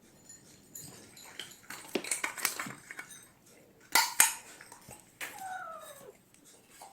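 A few knocks and rustles, the loudest two close together about four seconds in, then a cat meows once with a long call that falls in pitch.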